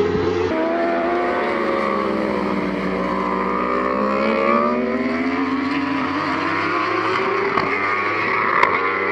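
Racing superbike engines going through a corner: the engine note drops as the bikes slow, then climbs again as they accelerate away. There is an abrupt change in the sound about half a second in, and a short sharp click near the end.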